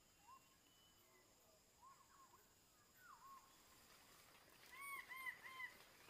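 A bird whistling short, arched notes, one at a time and in quick runs of three, faint over a quiet forest background; the loudest run of three comes near the end.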